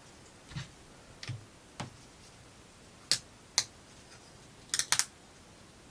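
Clicks and light knocks of small wooden plywood kit parts being handled and pressed together: a few soft knocks, then two sharp clicks about three seconds in and a quick cluster of clicks near the end.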